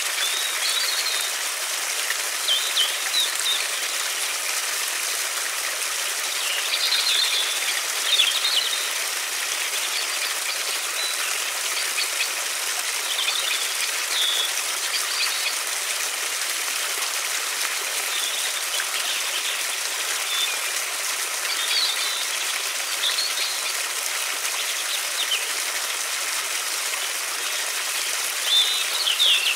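River water flowing in a steady rush, with small birds chirping in short bursts every few seconds, the busiest and loudest cluster of chirps near the end.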